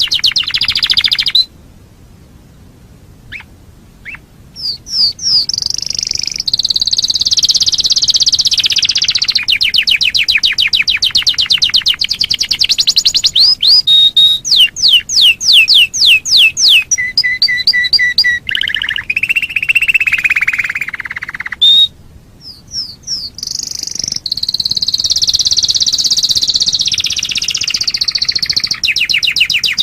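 Canary singing a long song of rapid trills and quickly repeated whistled notes, shifting from one repeated note to the next. The song breaks off twice for short pauses, near the start and about two-thirds of the way through.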